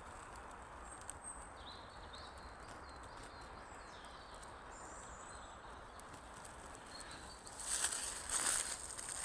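Small birds chirping now and then over a quiet woodland background, then footsteps rustling over the forest floor starting near the end.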